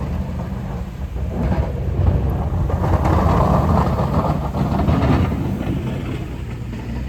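Snowplow truck's engine rumbling steadily as it goes by, with a rushing noise that swells about three to five seconds in.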